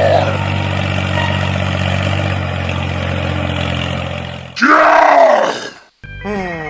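Engine running steadily at a low, even pitch, then cut off about four and a half seconds in by a loud, short cry that rises and falls in pitch. Near the end come short tones gliding in pitch.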